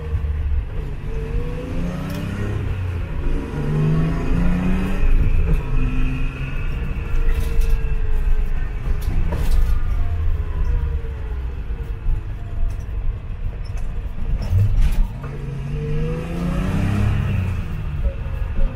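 Datsun 240Z race car's engine heard from inside the cabin while driving, its pitch rising as it accelerates and falling again several times as it shifts and slows.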